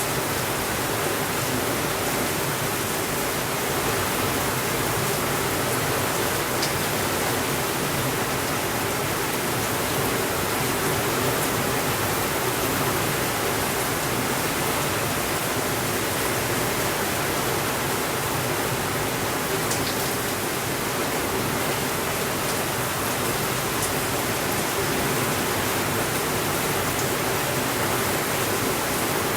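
Steady rainfall, an even rushing hiss that holds the same level throughout, with a couple of faint ticks.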